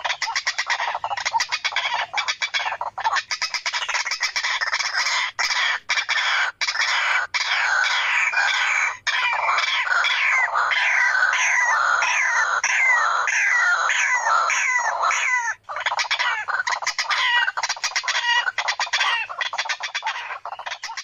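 White-breasted waterhen calls: a dense, unbroken run of fast repeated calls, with a stretch of falling notes about twice a second in the middle and a brief break past the middle. This is a lure recording for drawing waterhens in.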